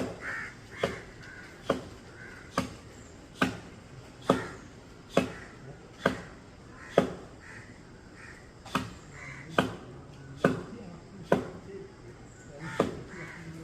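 Wood being chopped by hand during tree cutting: sharp chopping strokes at a steady pace of a little more than one a second. Crows caw between the strokes.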